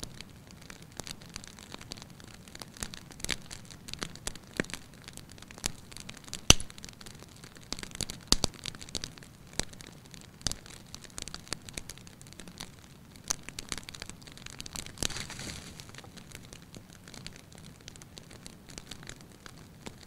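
Wood fire crackling in a fireplace: irregular pops and snaps over a soft hiss, with the sharpest pop about six and a half seconds in.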